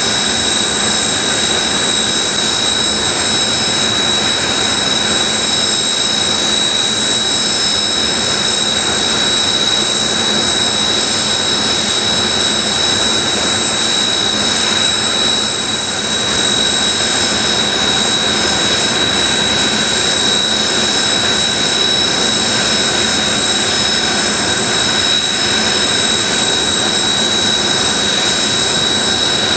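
Kawasaki T-4 jet trainers' twin turbofan engines idling on the ramp: a steady jet roar with a constant high-pitched whine.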